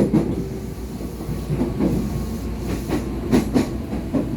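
KRL Commuter Line electric train running, heard from inside the carriage: a steady rumble with the wheels clacking over rail joints, several clacks coming in quick pairs.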